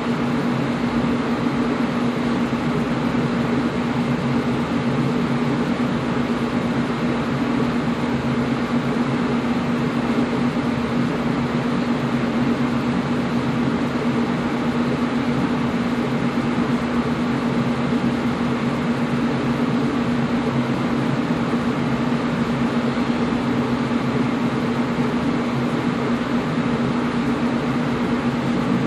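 Air conditioner running steadily: an even rush of blown air with a constant low hum.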